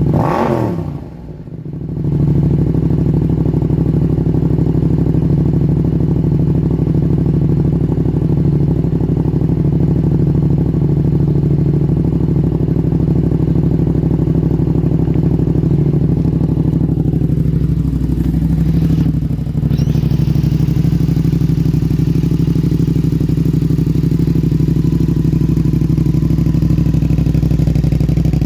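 2025 Yamaha MT-07's 689 cc parallel-twin running at a steady idle through a full Vandemon titanium exhaust system. Twice the pitch sweeps down as the engine settles back to idle: right at the start, and again about two-thirds of the way through.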